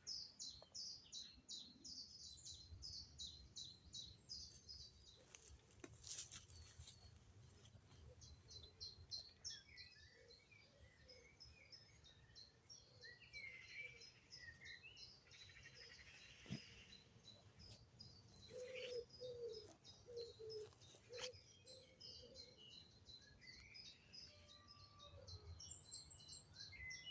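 Faint early-morning birdsong from several birds: rapid high chirps repeat throughout, with a short run of lower calls about two-thirds of the way through.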